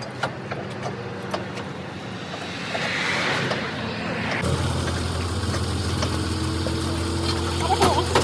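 A motor running with a steady low hum; about four and a half seconds in, a deeper, louder hum cuts in and holds, with scattered light clicks and knocks over it.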